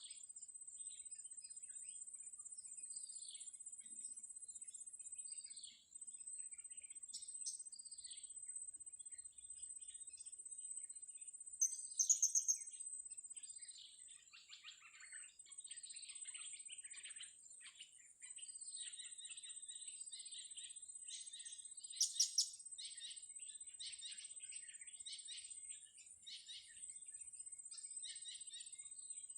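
Blue-crowned hanging parrots and other small birds chirping and calling continuously, with loud clusters of quick shrill notes about twelve and twenty-two seconds in. A steady high-pitched whine runs underneath.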